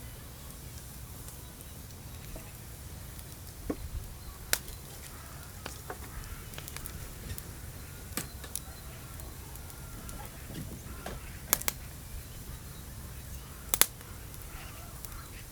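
Scattered sharp knocks and clicks, a few seconds apart, over a low steady hum, with faint bird chirps in the background.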